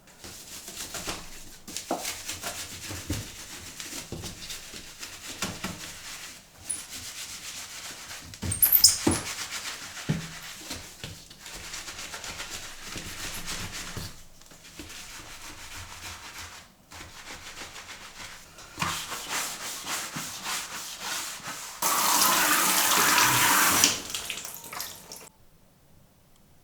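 Kitchen-sink work with running water and scrubbing or rubbing strokes, broken by small knocks and one sharper knock about nine seconds in. A louder steady rush, like a tap running full, lasts about two seconds near the end.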